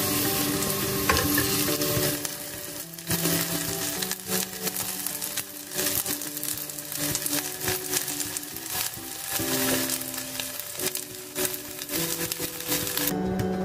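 Chicken pieces sizzling as they pan-fry in oil, a steady hiss dotted with many small pops, with background music underneath. The sizzle drops away near the end.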